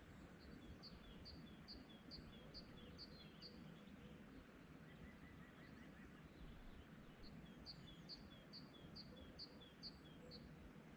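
A songbird singing faint phrases of repeated high two-part notes, about three a second, twice over. A fainter, lower run of quick notes comes between the phrases, over a low steady outdoor rumble.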